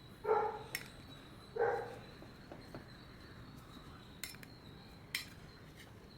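Two short dog barks about a second apart, with a few sharp metal clicks of spatulas against the steel ice-cream-roll plate.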